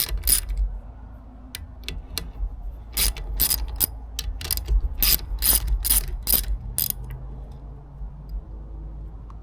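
Socket ratchet clicking in short, irregular runs as the 10 mm bolts on an outboard lower unit's water pump housing are loosened. The clicking stops about seven seconds in.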